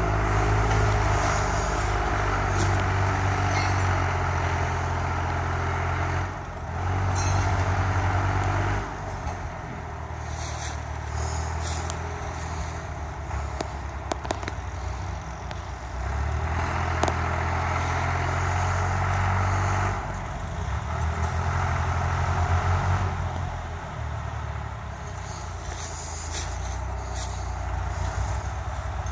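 Motor vehicle engine running on a forest track, its sound rising and easing in steps as the throttle and load change. Scattered clicks and crackles run through it.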